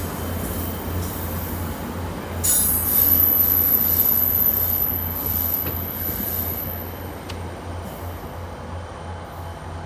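An NJ Transit commuter train's passenger cars rolling past and pulling away with a steady rumble. A high, thin wheel squeal sets in about two and a half seconds in, when it is loudest, then dies away as the rear cab car recedes and the rumble fades.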